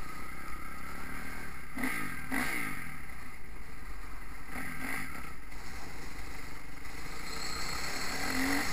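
Motocross bike engines revving up and down several times as they ride the track, over a steady low wind rumble on the microphone.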